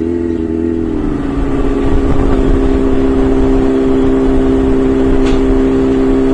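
Honda CBR600 F4i's inline-four engine revving up and then holding a steady high pitch at high revs under way.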